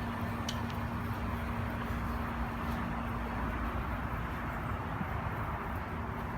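Steady hum of an idling engine: a constant low rumble with one unchanging tone over it.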